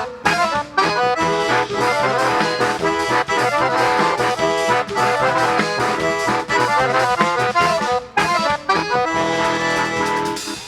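Accordion music: a sanfona playing quick runs of notes with a steady beat, pausing briefly about eight seconds in.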